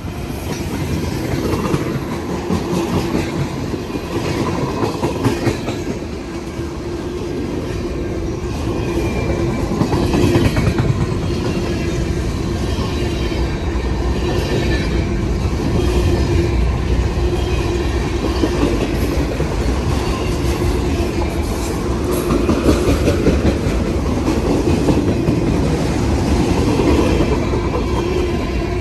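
A train's cars rolling past at close range, wheels clattering over the rail joints with a steady hum and a faint wheel squeal.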